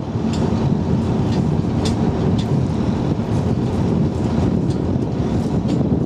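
Type 94 mine-laying vehicle's engine running steadily under way, heard from aboard as a loud low rumble, with irregular light clicks and rattles over it.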